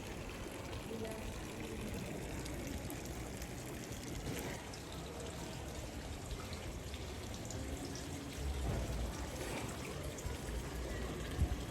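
Steady pouring, splashing water.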